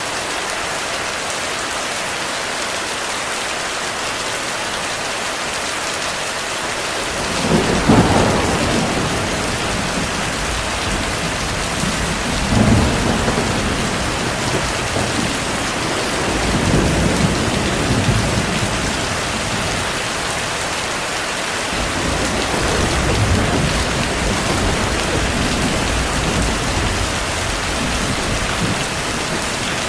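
Heavy rain falling as a steady hiss. About a quarter of the way in, a sudden thunderclap breaks in, followed by rolling thunder rumbles that swell and fade several times.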